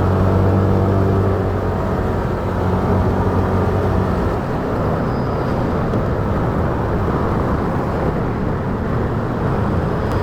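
Riding a motorcycle on city roads: a steady engine hum that fades about four seconds in, leaving wind and road noise.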